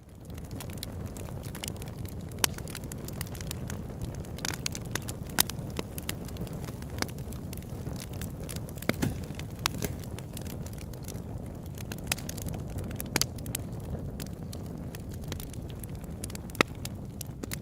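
Open-air wood campfire crackling, with irregular sharp pops and snaps over a steady low rush of burning; a few pops stand out louder, about 2.5, 5.5 and 16.5 seconds in. It comes in from silence at the very start.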